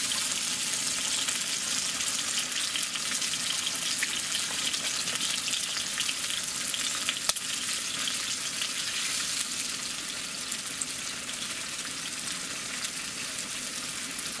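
Food frying in a pan, leftover dinner with eggs added: a steady sizzle with fine crackling, and one sharper click about halfway through.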